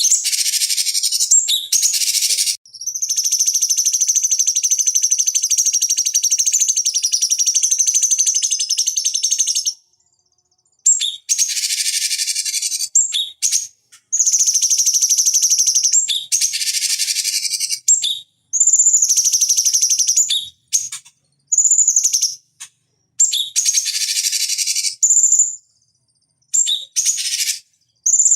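Cucak cungkok songbird singing a loud, buzzy chattering song, first in one long phrase of about seven seconds, then in a run of shorter phrases broken by sudden silences.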